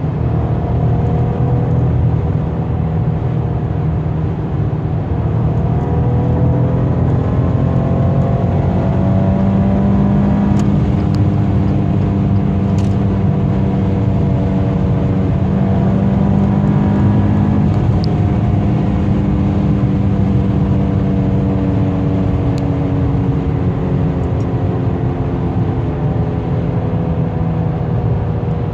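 Maserati Quattroporte V6 engine and exhaust at steady highway speed: a loud, even low drone whose engine tones drift slowly up and down as the speed changes a little. A few faint ticks are heard here and there.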